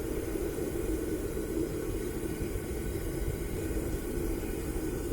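Homemade propane furnace running steadily as it melts brass: a constant rushing burner noise with a steady low drone underneath.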